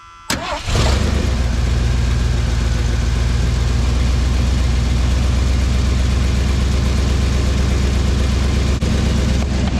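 1979 Ford F-150's V8 engine cranked over and catching within the first second, then running steadily, sounding pretty good.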